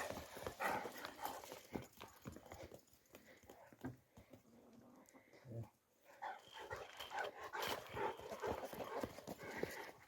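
Faint animal calls with scattered clicks and knocks, quieter in the middle and busier again near the end.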